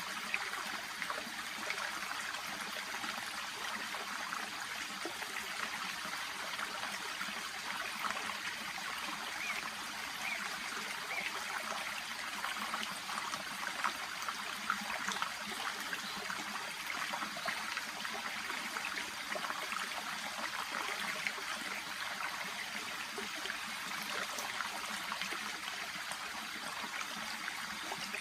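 Shallow stream babbling steadily, water running over and through water plants.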